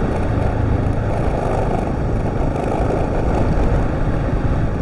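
Husqvarna TR650's single-cylinder engine running as the motorcycle rides through soft sand, a steady mix of engine and wind noise heaviest in the low end.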